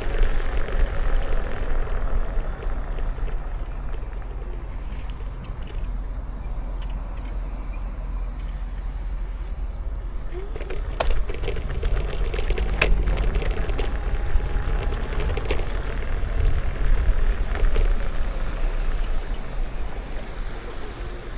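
Wind rumbling on the action camera's microphone and road noise while riding a Kukirin G2 electric scooter, with a run of sharp clicks and rattles about halfway through.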